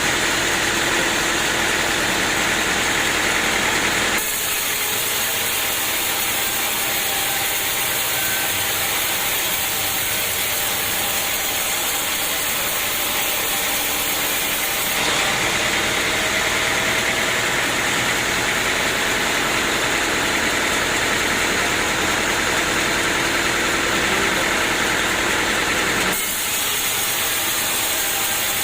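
A sawmill's engine running steadily. The tone of the noise shifts abruptly three times: about four seconds in, around the middle, and near the end.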